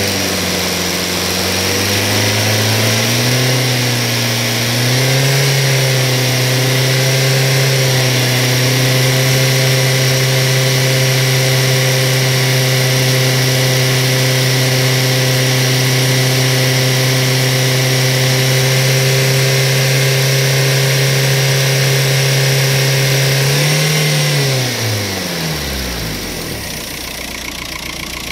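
Audi 1.9 TDI pumpe-düse four-cylinder diesel engine held at raised revs, running on diesel purge cleaner while it clears deposits from the injectors. The revs climb over the first few seconds, hold steady for about twenty seconds, then drop quickly back towards idle near the end.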